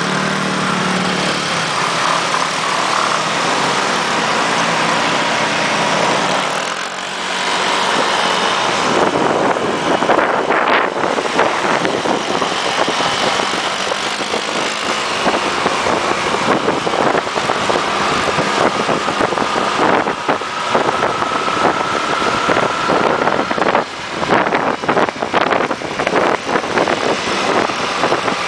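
Steady road and wind noise from riding a motorcycle on the road, a dense rushing hiss with no clear engine note. It turns gusty and choppy near the end.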